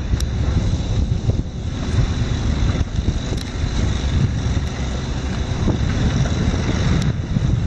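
Wind buffeting the microphone: a loud, gusting low rumble, with a few faint ticks over it.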